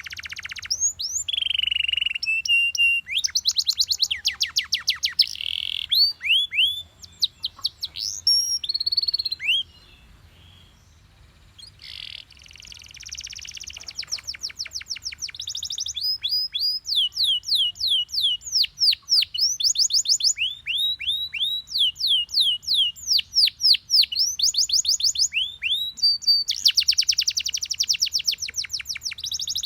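Yellow Belgian canary singing: fast trills, whistled notes and runs of quickly repeated downward-sweeping notes, with a short lull about ten seconds in.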